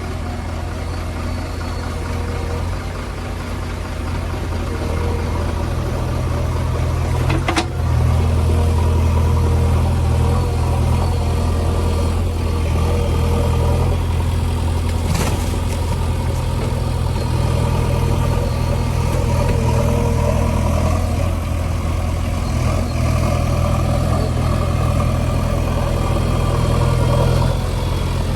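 JCB 3DX backhoe loader's diesel engine running steadily, working harder and louder from about eight seconds in. Two sharp knocks come about eight seconds apart.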